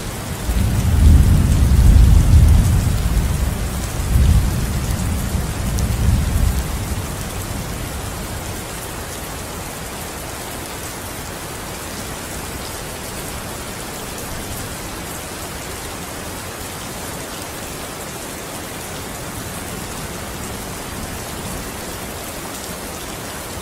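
Steady rain falling, with a low rolling rumble of thunder that swells several times through the first seven seconds or so, then fades.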